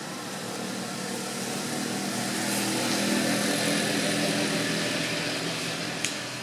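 An engine passing by, swelling to its loudest about three seconds in and then fading, with a sharp click near the end.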